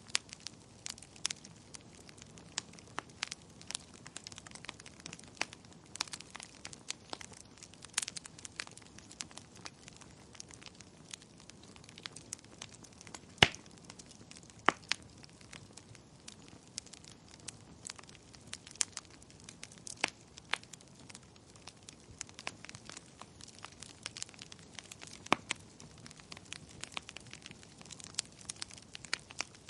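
Wood fire crackling and popping, with irregular sharp snaps over a soft steady hiss and one louder pop about halfway through.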